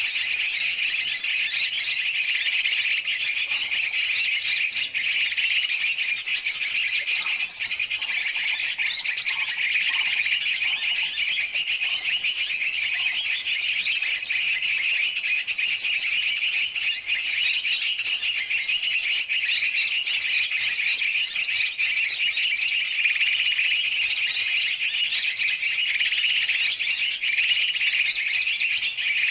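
Bird-lure recording: a dense, unbroken chorus of many big and small birds calling and chattering noisily together, the kind of racket used to pull in birds such as yellow-vented bulbuls (trucukan).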